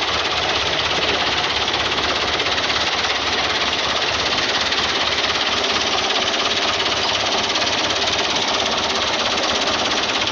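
A tractor's diesel engine running steadily with a fast, even clatter.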